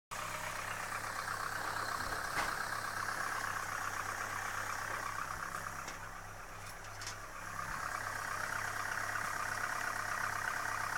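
Chevrolet Aveo 1.5-litre engine idling cold, running steadily with a knocking and a whistle that are the faults being looked for.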